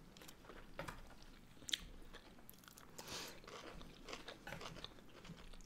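Soft, close-miked chewing of sushi rolls: wet mouth sounds and light clicks, with one sharper click a little under two seconds in.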